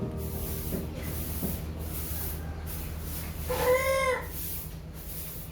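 A single short animal call, rising then falling in pitch, about three and a half seconds in, over a steady low drone.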